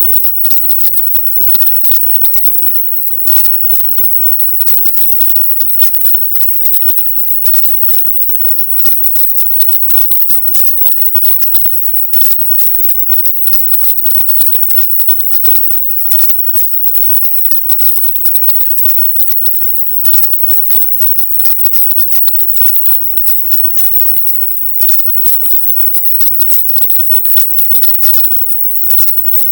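Processed 'silent subliminal' audio track: a loud, continuous harsh crackling noise, brightest in the highest treble and chopped by many brief dropouts.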